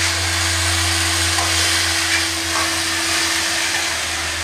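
Crickets being stir-fried in a wok: an even sizzling hiss, with a metal spatula scraping now and then, over a steady low hum.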